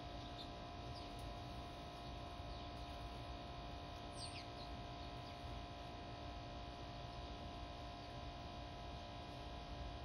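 A few faint, short, high chirps from small songbirds, each falling in pitch, with the clearest one about four seconds in, over a steady low hum.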